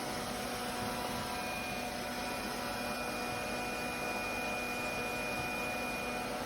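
Lefant M1 robot vacuum running: a steady whir with a few constant tones over an even hiss.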